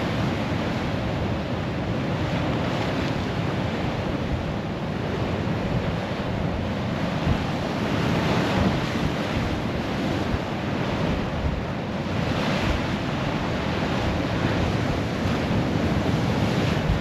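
Rough sea breaking and washing on a sand beach in a gale, swelling louder now and then, with strong wind buffeting the microphone.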